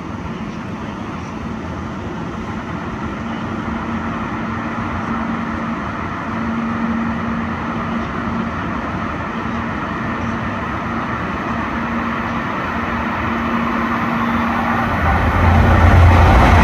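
Rapid-service train approaching through a station at speed, its rumble growing slowly louder, then a sudden louder low rumble near the end as it reaches and passes.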